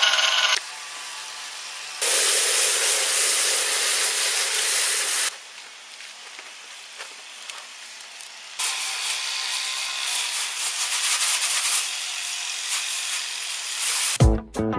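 Water hose spraying in spells: a loud steady hiss for about three seconds, a quieter stretch, then a longer spell of spraying that wavers in level. Guitar music comes in near the end.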